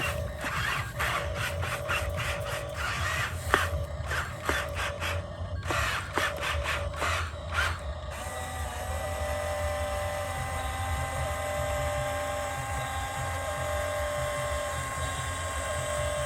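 Small electric motors and gearing of radio-controlled construction models whining. In the first half they run in short stop-start spurts with clicks and knocks; about halfway the whine becomes steady, with one tone cutting in and out.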